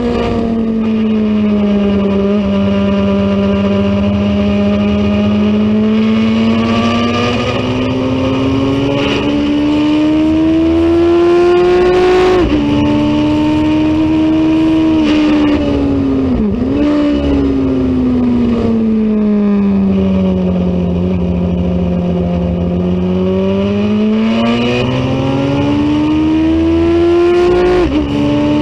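Racing motorcycle engine under load, its pitch slowly climbing and falling as the revs rise and drop. Sharp breaks in the note at gear changes about twelve seconds in, again around sixteen seconds, and near the end.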